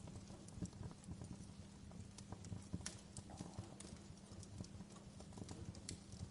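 Wood fire crackling in a fireplace: irregular snaps and pops, a few sharper ones standing out, over a low steady rumble of the burning logs.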